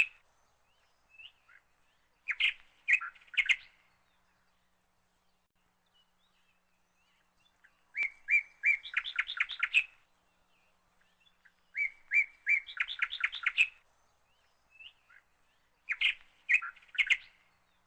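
A small songbird chirping in short bursts of quick, high chirps, four phrases a few seconds apart with quiet gaps between.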